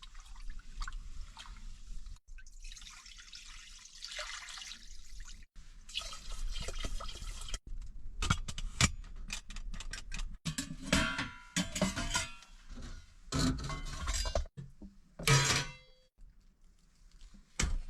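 Water poured and sloshing in a cooking pot as rice is readied for cooking, followed by a run of clinks and clatter from pots and utensils. The sound breaks off abruptly several times.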